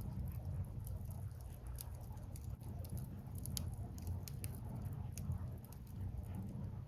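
Firewood burning in an open fire: irregular sharp crackles and pops scattered throughout, over a low steady rumble.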